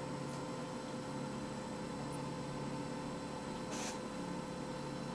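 Steady electrical mains hum from the powered O-scale model train layout as a locomotive creeps along, with a short high hiss about four seconds in.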